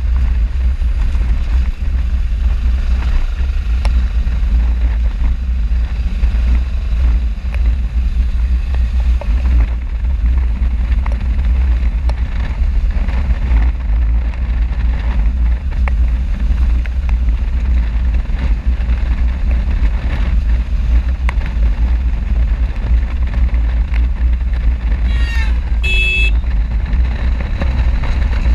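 Riding a motorcycle: a steady, heavy low rumble of wind buffeting the camera microphone, mixed with the running engine. Near the end comes a brief pitched sound that rises and then holds as a short tone.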